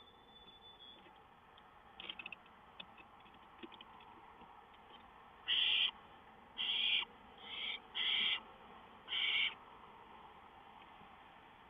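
Barn owl calls: five short hissing screeches in quick succession, about half a second each, after a few faint clicks.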